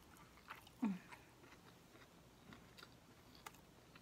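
Close-up chewing of a fried jalapeño, with soft wet mouth clicks and smacks scattered throughout. About a second in comes a short low hum that falls in pitch.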